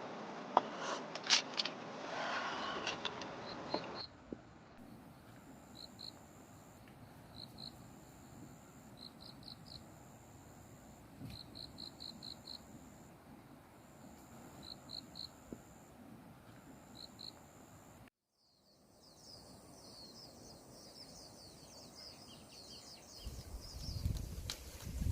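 Insects chirping and trilling in short repeated bursts, high-pitched over a faint background. A few clatters come in the first few seconds.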